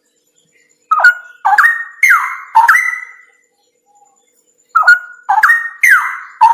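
Straw-headed bulbul (cucak rawa) singing: two phrases of about four quick, loud whistled notes, each note sliding down in pitch. The first phrase starts about a second in and the second near the end.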